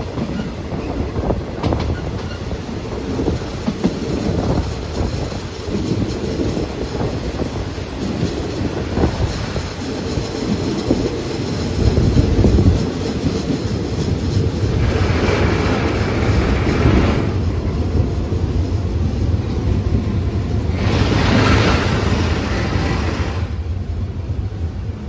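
Passenger train heard from on board, running along the track with a steady rumble and wheels clicking over the rails. Twice, for a couple of seconds each, a louder higher-pitched rushing noise rises over it.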